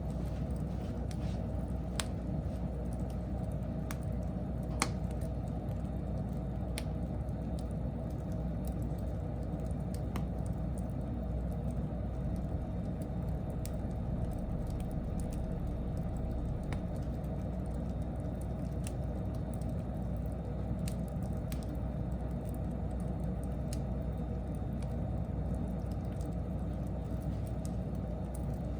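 Wood fire burning, with a steady low rumble and irregular sharp crackles and pops every second or few.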